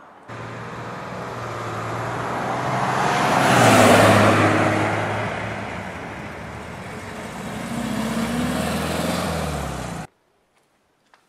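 A motor vehicle's engine passing close by, loudest about four seconds in, then rising in pitch again as it revs, cutting off abruptly near the end.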